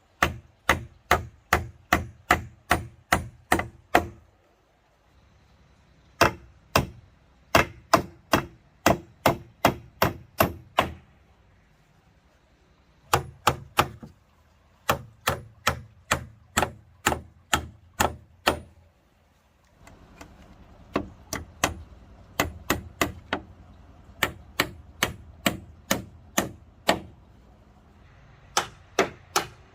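Rapid, evenly paced blows of a hand tool striking wood, about two to three a second, in runs of several seconds with brief pauses between.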